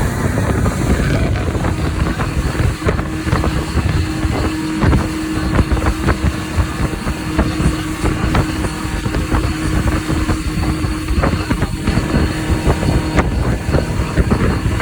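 Jet ski engine running under way with a steady drone, and heavy wind buffeting on the microphone.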